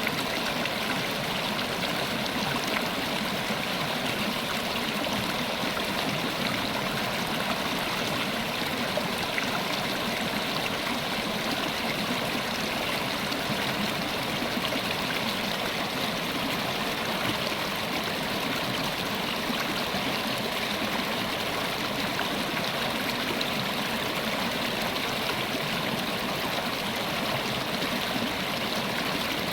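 River water running over stones: a steady rushing and gurgling flow that never changes.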